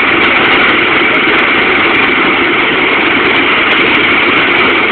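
Mexican Navy helicopter's engine and rotors running, a loud, steady noise.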